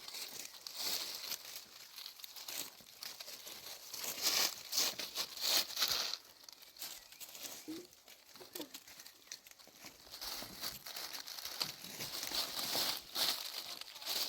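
Irregular crinkling and rustling noises that come and go in uneven bursts.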